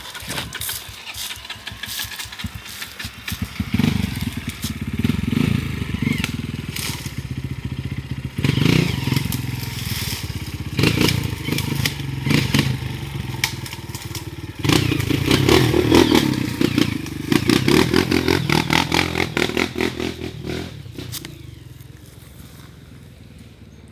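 Single-cylinder four-stroke trail bike engine revving up and down as it climbs over rough ground, with clattering, scraping and crackling from stones and brush. The engine sound fades away near the end.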